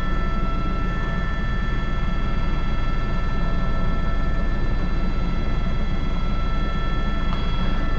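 Airbus H125 (AS350 B3) helicopter in a steady climb, heard from inside the cockpit: an even rotor beat with the steady whine of the turbine and gearbox, several high tones held constant throughout.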